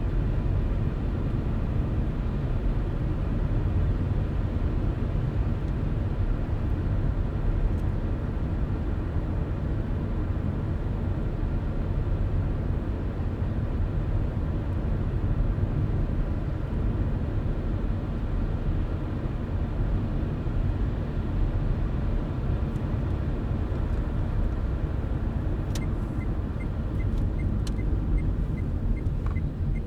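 Car driving at a steady speed: an even, low rumble of engine and tyres on the road. Near the end a light, regular ticking starts, about two ticks a second, with a few sharper clicks.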